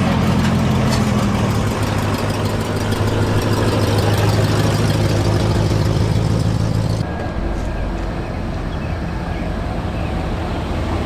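Vehicle engine running steadily; about seven seconds in the sound changes abruptly to a lower, duller engine rumble.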